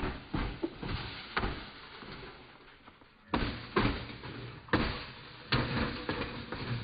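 A series of irregular thumps and bangs, about eight sharp knocks with a short pause of about a second in the middle.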